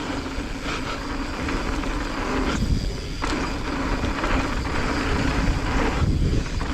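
Electric mountain bike rolling fast down a dirt trail: tyres on dirt and a rattling bike, with wind rushing over the microphone. The noise drops briefly for about half a second, about two and a half seconds in.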